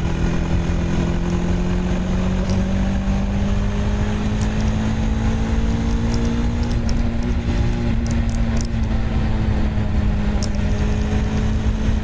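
Bajaj Dominar 400 motorcycle's single-cylinder engine and exhaust under way, the engine note climbing slowly over the first half as the bike gathers speed, then holding and easing off near the end. A low rumble of wind and road noise runs underneath.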